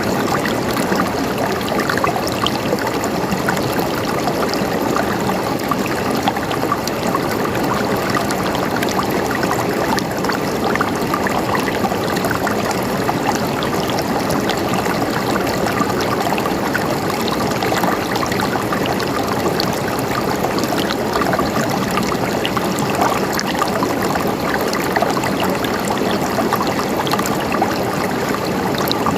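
River water flowing steadily, with a constant rush and many small splashes and trickles over rocks.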